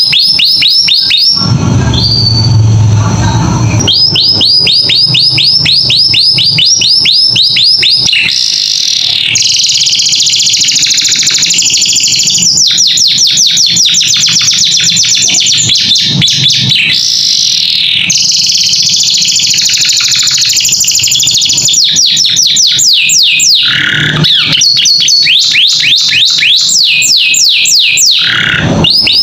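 Domestic canary singing a long, full song: tours of rapid repeated down-slurred notes, about six a second, alternating with sustained rolling trills. A brief low rumble sits under the song near the start.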